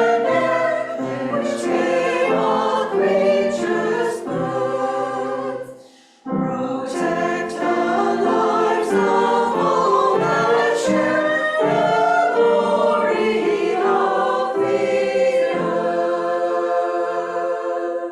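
Voices singing in a choral style, with a short break about six seconds in; the song ends right at the close.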